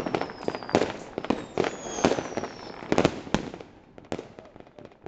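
Fireworks and firecrackers going off all around, many sharp bangs and crackles overlapping at irregular intervals, with a few high whistles falling in pitch in the first couple of seconds. The bangs thin out near the end.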